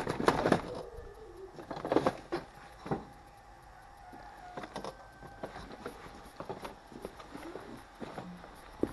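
Faint bird calls over a few sharp knocks and bumps; the knocks are loudest in the first three seconds.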